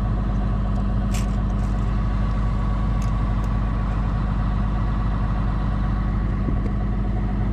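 John Deere 790 excavator's diesel engine running steadily, with one brief click about a second in. It sounds great after a blown hydraulic hose was replaced.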